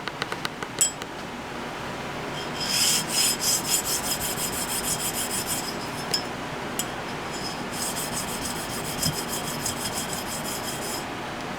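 A steel slip-joint knife part rubbed back and forth on a diamond sharpening plate to flatten a raised burr, in two bouts of quick, even scraping strokes, a few seconds each.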